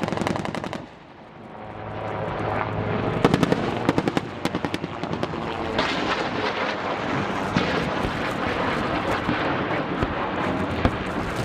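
Military attack helicopters flying, with their rotor and engine noise underneath several short bursts of rapid automatic gunfire during live-fire training. The bursts come in clusters of fast cracks a few seconds apart, and the sound drops out briefly about a second in.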